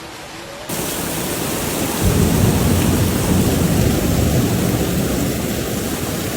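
Thunderstorm: a steady rush of heavy rain, joined about two seconds in by a long, deep rumble of thunder.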